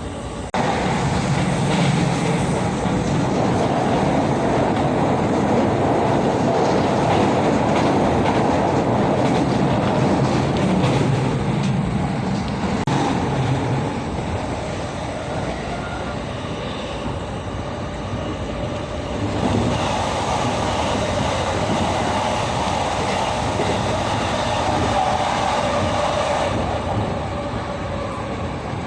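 JR Tokaido Line commuter train running along the rails, heard inside the passenger car: a steady rumble of wheels and track, louder in the first half and easing somewhat after the middle.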